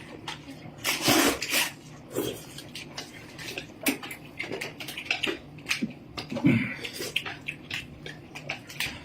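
Close-up eating sounds: noodles slurped in short noisy bursts, the loudest about a second in, with chewing and small clicks throughout.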